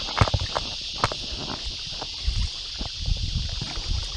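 Canoe being paddled: sharp knocks of the paddle against the hull and low thumps of the strokes in the water, over a steady high-pitched hiss.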